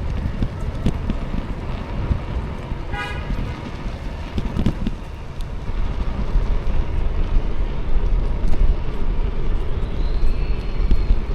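Steady low rumble of wind on the microphone and street traffic while riding. About three seconds in there is a short, high horn toot. Near the end a faint high whistle-like tone rises and falls.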